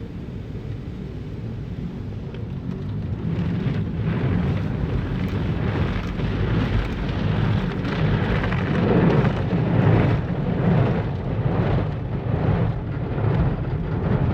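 Automatic car wash running over the car, heard from inside the cabin: a rumbling rush of water spray and machinery drumming on the body, growing steadily louder, with a regular pulsing from about four seconds in.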